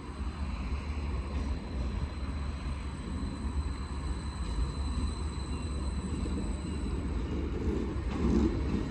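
Train running as it pulls into the station, a steady low rumble with a louder swell near the end.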